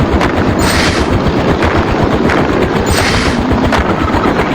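Cartoon sound effect of a bucket wheel excavator digging: a fast, continuous mechanical rattle, with swells of hissing noise about a second in and again about three seconds in.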